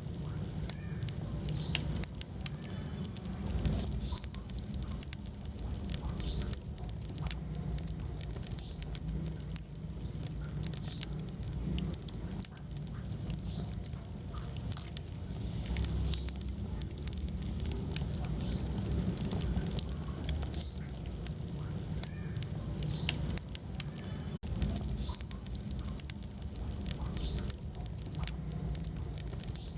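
Wood fire burning in a fireplace: a steady low rumble of flames with frequent sharp crackles and pops from the burning logs. The sound cuts out for an instant about three-quarters of the way through.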